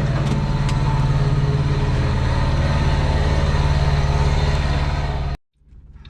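Heavy vehicle engine running steadily with an even low pulsing. It cuts off abruptly about five seconds in, and a much quieter sound then slowly rises.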